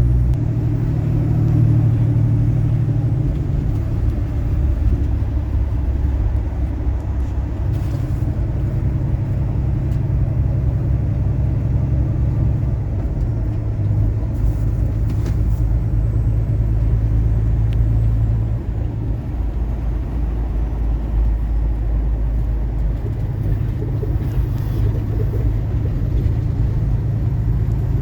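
Engine and road noise heard from inside a moving vehicle on a winding back road. A steady low rumble that shifts in pitch a few times as the engine load and speed change.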